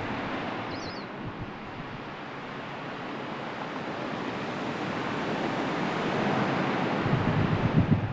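Sea waves washing, a steady rush of surf that swells over the last few seconds, with wind buffeting the microphone near the end.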